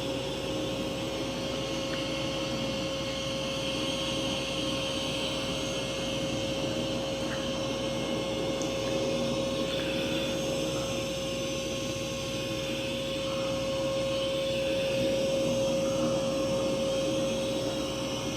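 Mova V50 robot vacuum running on carpet: a steady whir of its suction fan and brush roll with a constant hum, swelling slightly as it moves about.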